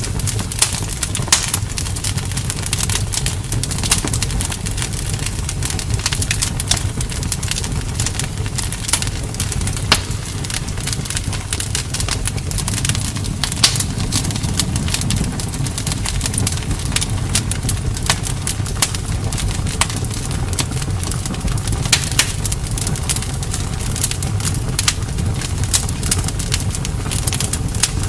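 Bonfire crackling, with frequent irregular sharp pops and snaps over a low steady rumble.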